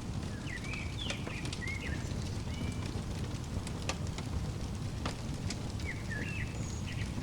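Wood fire crackling, with scattered sharp pops over a steady low rumble. A small songbird sings two short bursts of chirps, one near the start and one near the end.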